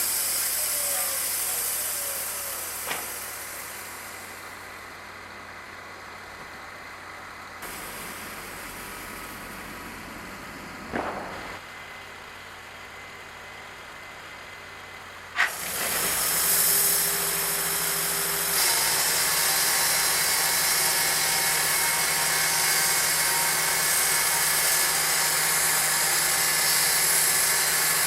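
Motor-driven machinery running steadily, quieter for a stretch, then a sharp knock about halfway through and a louder steady run after it.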